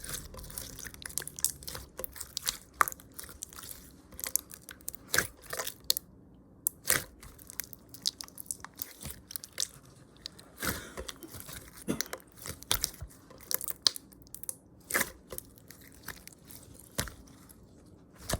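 Chewing a chewy lemon candy close to the microphone: irregular wet mouth clicks and smacks.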